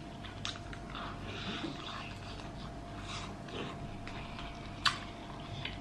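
Close-miked chewing of pork rib meat: soft wet mouth clicks and smacks, with one sharper click about five seconds in.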